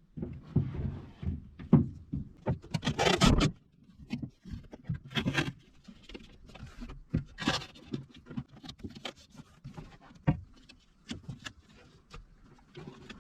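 Hands taping a loose absorber pad onto the inside of a car door: tape rustling and being pressed down, with irregular light knocks and scrapes, the longest rustle about three seconds in.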